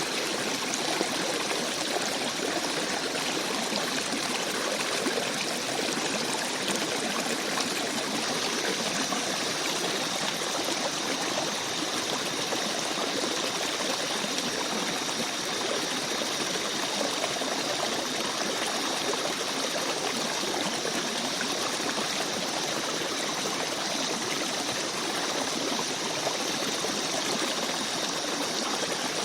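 Small forest stream babbling and trickling over stones, a steady, even rush of water.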